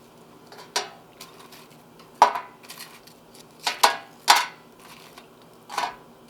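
Kitchenware clinking and knocking: about six separate sharp clatters of dishes or utensils, spaced a second or so apart.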